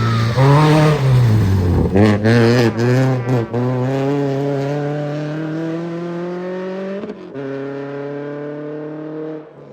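Subaru Impreza 2.5RS rally car's naturally aspirated flat-four engine working hard, its pitch rising and falling over the first few seconds, then climbing steadily under full throttle. There is a short break about seven seconds in, and the engine eases off near the end.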